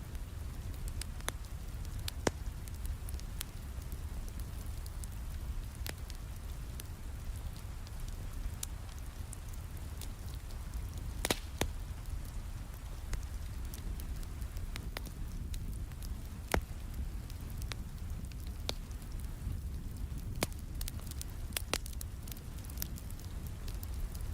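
Wood fire crackling in a fireplace, with irregular sharp pops scattered through, over the steady hiss of rain and a low rumble.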